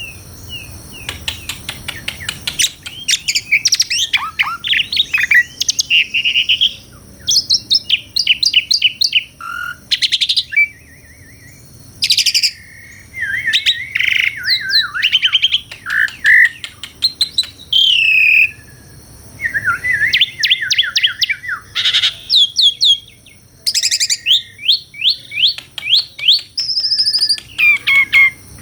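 Pied starling (jalak suren) singing a loud, varied song: runs of rapid chirps, sweeping whistles and trills delivered in phrases of a second or two, with short pauses between them.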